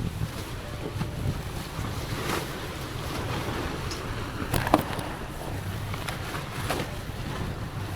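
Wind buffeting the microphone over the wash of water around a sailboat, with a few sharp knocks, the loudest a little under five seconds in.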